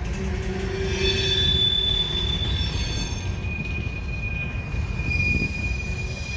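Train wheels squealing loudly against the rail on a tight curve, over the low rumble of the rolling train. The squeal holds one high pitch, then shifts to a lower steady pitch about halfway through.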